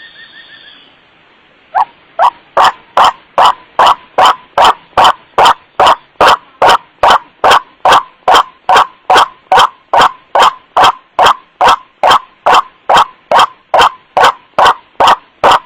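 White-breasted waterhen (kuruak) calls: a harsh 'wak' repeated about two and a half times a second, very loud and clipping. It is played as a luring call and starts about two seconds in, after a brief, fainter run of higher notes.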